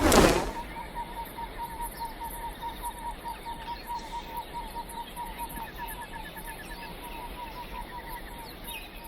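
A short, loud burst at the start, then steady rapid chirping, about five chirps a second, over a faint background hiss.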